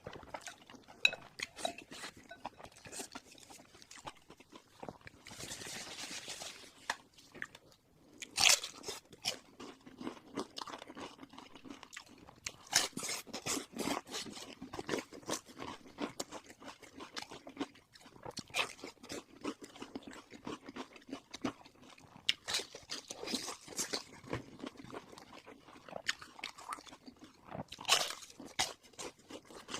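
Eating sounds of fried sweet pork in chili sauce: a person crunching and chewing, with a run of irregular sharp crunches. A few louder bites come about eight seconds in, around thirteen seconds and near the end.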